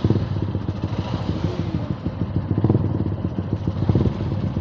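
Motorcycle engines running with a steady, rapid low pulsing rumble.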